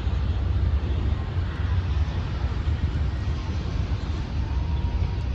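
Steady low rumble of vehicle and traffic noise, with no distinct event.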